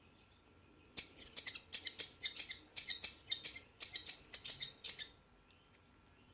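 Scissors cutting: a run of quick, crisp snips, about three a second, starting about a second in and stopping about five seconds in.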